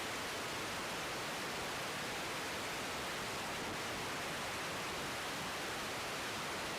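Steady, even hiss of static from an air-traffic-control radio feed between transmissions, with no engine or voice standing out.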